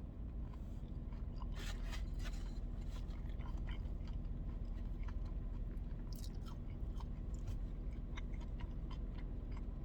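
A person chewing food close to the microphone, with wet mouth sounds and a few crisp crunches about two seconds in and again around six seconds.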